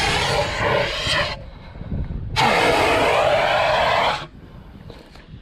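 A fire extinguisher is discharged in two hissing bursts, the first a little over a second and the second nearly two seconds, each starting and cutting off abruptly. It is putting out a small fire that started near the turbo.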